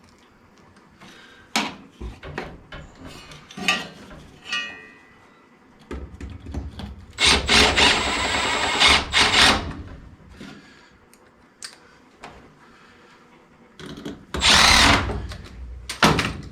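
Cordless power driver running screws in, a run of about two seconds and a shorter one near the end, with clinks and knocks of parts and tools between; the screws are most likely those of the furnace's limit switch being fastened back in place.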